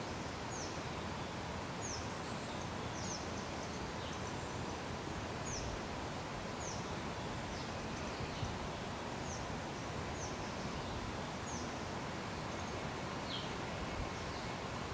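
Steady outdoor background hiss with a bird's short, high, falling chirps repeated every second or so.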